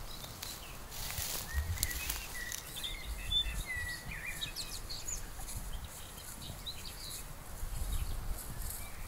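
Small songbirds chirping in short, quick calls, mostly in the first half, over a low outdoor rumble.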